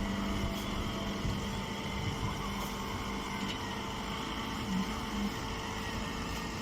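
A machine running steadily: a constant hum with several steady tones over a low rumble, with a few small bumps.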